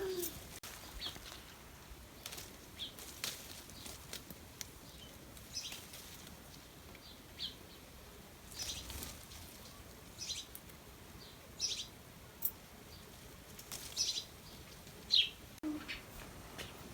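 Birds chirping sporadically: short, high calls scattered every second or so over a faint, steady background.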